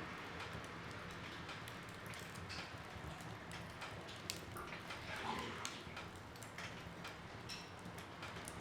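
Wood fire burning in a fireplace: a steady soft rush of flames with irregular sharp crackles and pops of burning wood, a few louder pops in the middle.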